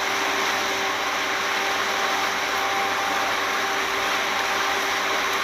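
Speedboat under way: a steady rush of engine and wind noise with a faint constant hum, unchanging throughout.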